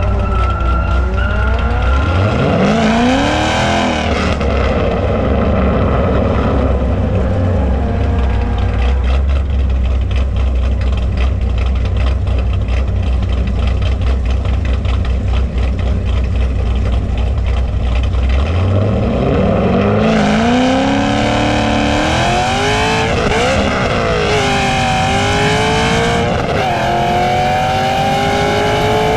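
Drag-racing muscle car engines: an engine revs up briefly, then a heavy low rumble holds steady for a long stretch before a car launches, its engine pitch climbing and dropping back through gear shifts in the last several seconds.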